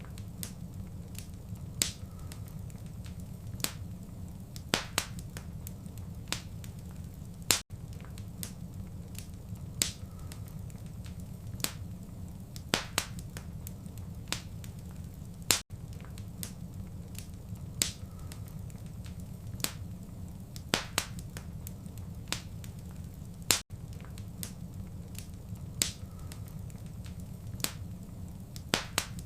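Wood fire crackling: irregular sharp pops and snaps over a steady low rumble of burning, with a brief gap in the sound about every eight seconds.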